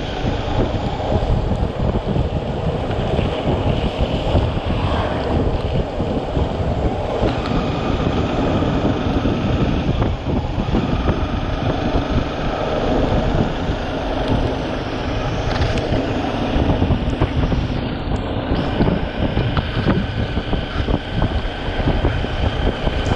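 Wind buffeting the microphone on a moving motorcycle, with the engine running steadily underneath.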